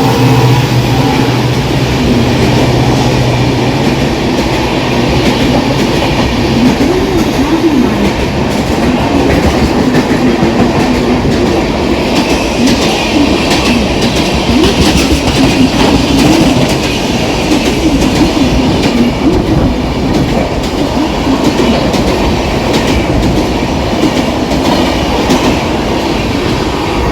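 A fast train running through the station without stopping, with a continuous loud rumble and clatter of wheels over the rail joints as its coaches pass. A low steady engine tone fades out over the first few seconds as the locomotive goes by.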